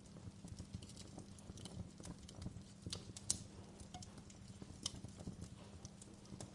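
Wood fire crackling in a fireplace: a low steady rumble of burning with irregular sharp snaps and pops, the loudest about three seconds in.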